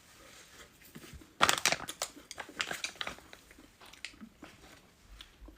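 A person eating crisp food close to the microphone. There is a burst of loud crunching about one and a half seconds in, then scattered smaller crunches and chewing.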